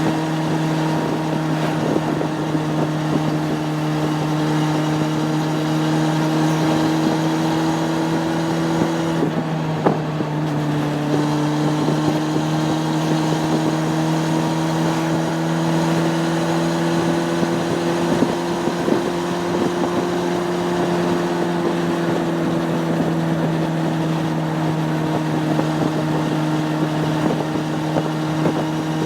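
Honda CB600F Hornet's inline-four engine running at steady road speed, with wind noise on the microphone. About nine seconds in the sound briefly dips, then the revs climb slowly and ease off again.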